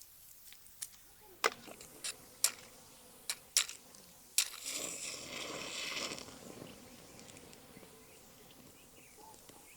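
Several sharp, separate clicks or knocks, then about a second and a half of rustling hiss a little before the middle, fading to faint background.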